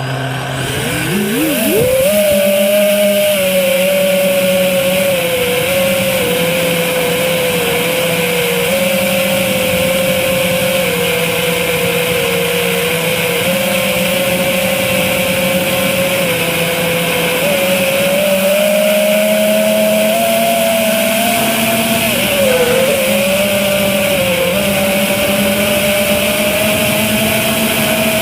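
FPV quadcopter's brushless motors and propellers buzzing in flight. The pitch climbs sharply as they spin up in the first two seconds, then wavers up and down with throttle, dipping briefly near the end.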